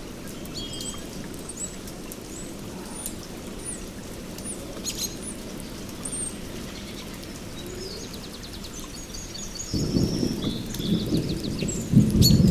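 Steady rainforest rain with birds chirping and trilling, then thunder rolls in near the end, rumbling and growing louder.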